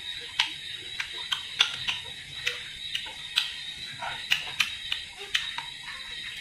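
Open-mouthed chewing of crisp guava: irregular wet clicks and smacks, about two or three a second.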